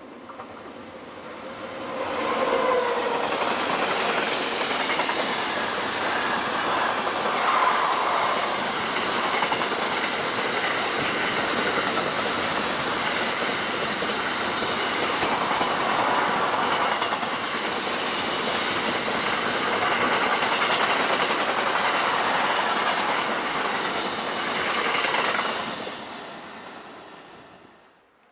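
A long train passing by on the line, its wheels running over the rails. It swells about two seconds in, stays loud for over twenty seconds, and fades away near the end.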